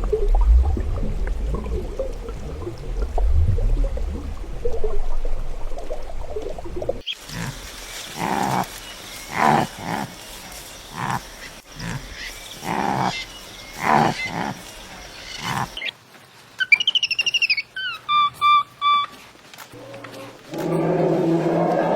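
A string of different animal calls. Deep, low rumbling calls come first. After about seven seconds there is a run of short calls, roughly one a second. A few high chirps follow, and a louder pitched call starts near the end.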